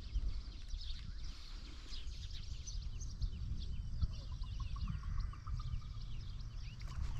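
Many small birds chirping in quick, high notes, with a short run of fast, even pips a little past the middle, over a low wind rumble on the microphone.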